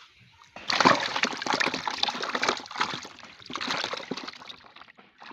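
Water splashing and sloshing in a rapid, irregular flurry that starts suddenly about a second in, dips briefly midway, and dies away near the end.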